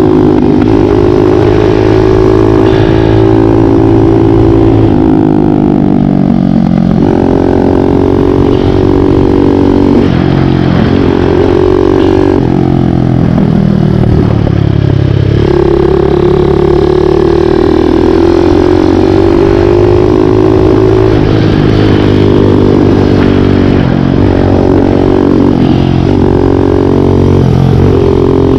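Big-bore Kawasaki KLX178 dirt bike's single-cylinder four-stroke engine under way. Its pitch drops off twice, about five to seven seconds in and again around twelve to fifteen seconds, and each time climbs back and holds steady.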